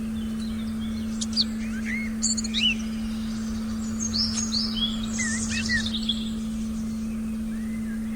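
Forest birds chirping and calling in short rising and falling notes, bunched from about a second in to about six seconds, over a steady low synthetic tone.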